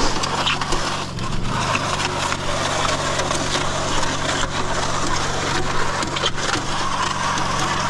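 Portable cement mixer running steadily on its small engine while the drum churns concrete mix, with many scattered gritty crackles over the hum.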